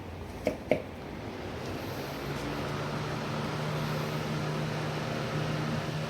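Lasko 3733 box fan with a tuna-can motor running: two short clicks about half a second in, then its air noise and a steady motor hum rise over the next couple of seconds and hold.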